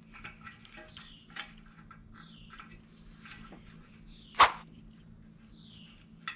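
Small clicks and taps from the ignition-coil wiring being handled and plugged in, with one sharp click about four and a half seconds in. Birds chirp in the background with short falling calls.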